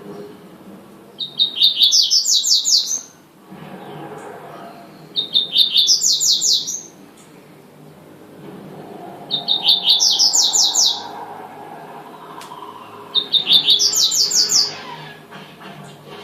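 Coleiro (double-collared seedeater) singing the tui-tui song type: four short phrases of rapid repeated high notes, about every four seconds.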